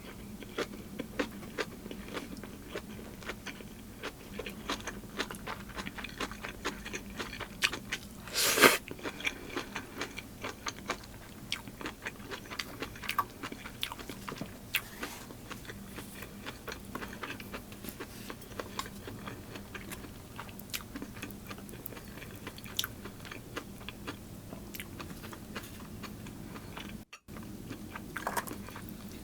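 Close-miked eating sounds of a Korean bossam meal with kimchi: steady crunching, biting and chewing full of small wet clicks, with one louder noisy crunch or slurp about a third of the way in.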